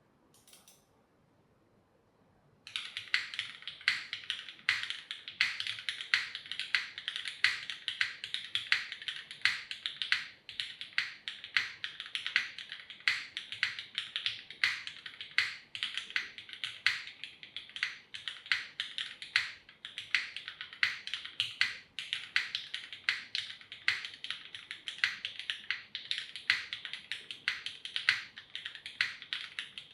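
Mechanical keyboard with lubed Cherry MX2A Black linear switches in an aluminium plate, topped with GMK keycaps, being typed on rapidly and without a break. It starts about two and a half seconds in, after a brief near-silent lead-in.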